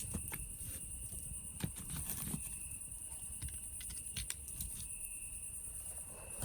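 Campfire crackling, with irregular sharp pops and snaps from the burning wood over a low rumble. Behind it a steady, high insect chorus of cicadas shrills, with a second lower insect note coming and going.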